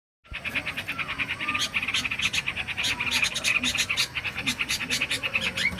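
Yellow-vented bulbul (trucukan) calling: a rapid, dense run of short chattering notes, several a second, mixed with a few brief whistled glides, starting a moment in.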